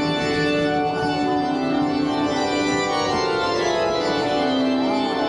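Organ music with long held chords.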